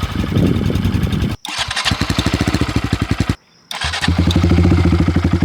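2023 Honda Grom's single-cylinder engine idling through its exhaust in rapid, even pulses. The sound is cut into three short clips with abrupt breaks between them.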